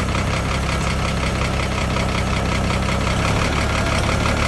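Diesel truck engine idling steadily with an even, rapid knocking clatter.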